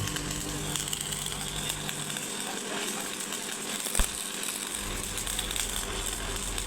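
Workshop tool noise: a steady hiss dotted with small clicks and crackles, with one sharp knock about four seconds in.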